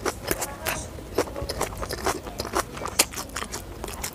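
Close-up eating sounds of chewing Schezwan fried rice and chicken: irregular wet mouth clicks and smacks, with a sharper click about three seconds in.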